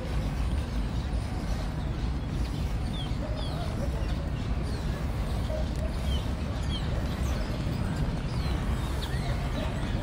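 Short, high, falling bird chirps every second or so over a steady low outdoor rumble.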